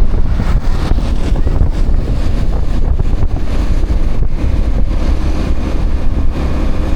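Steady wind rumble on the microphone of a moving motorbike, with road and traffic noise beneath.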